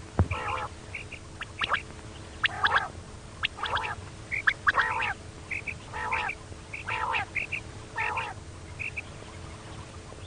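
Female quail calling over and over: a rasping call about once a second, with short high paired notes between the calls. A sharp click sounds right at the start.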